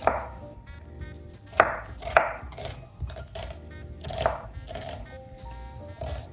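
Knife chopping on a cutting board: a few sharp, irregularly spaced knocks, the loudest about one and a half and two seconds in, over soft background music.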